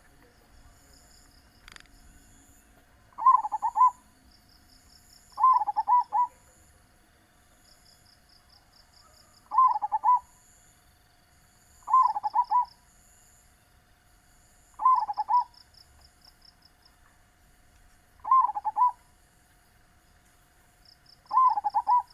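Zebra dove (perkutut) cooing: seven short, rolling coo phrases, each under a second, spaced two to four seconds apart. Faint rapid high-pitched chirping and a faint steady hum sit underneath.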